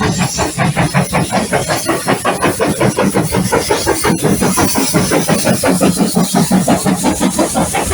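Steam locomotive working hard, its exhaust beating in a steady, even rhythm of about five chuffs a second.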